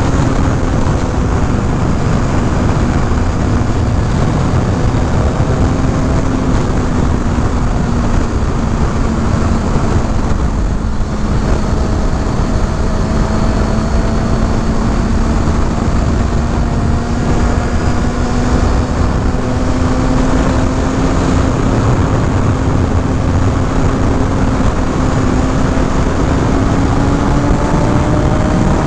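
Kawasaki Ninja ZX-6R's inline-four engine running at steady cruising revs under a heavy rush of wind noise. The engine note sags slightly about midway and climbs again near the end as the revs rise.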